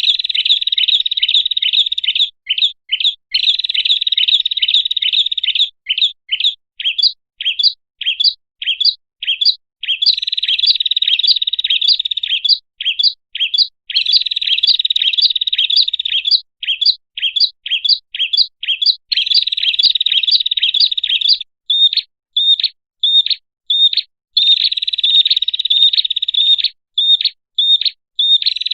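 Prenjak (prinia) calls played as a bird lure: runs of sharp, separate chirps, two or three a second, alternating with stretches of dense, continuous trilling.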